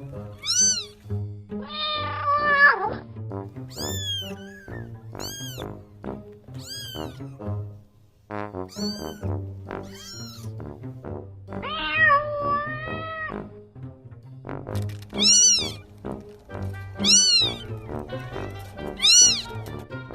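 Domestic cats meowing over and over: about ten short, high meows that rise and fall in pitch, and two longer, lower meows, one about two seconds in and one past the middle. Soft background music plays underneath.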